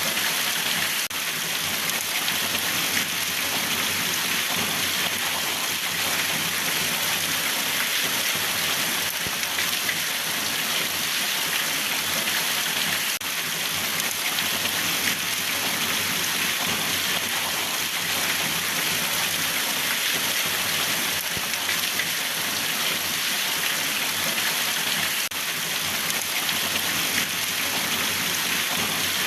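Steady heavy rain falling, an even dense hiss without a break.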